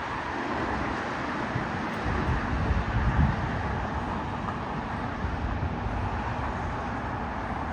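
Wind buffeting the microphone in low, rumbling gusts over a steady outdoor roar, with a stronger gust about three seconds in.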